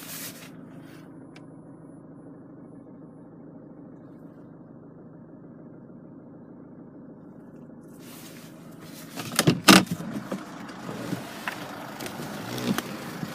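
Land Rover Freelander 2's 2.2 TD4 turbo diesel engine idling, a steady low hum. From about eight seconds in there are several sharp knocks and clicks; the loudest comes a second or two later.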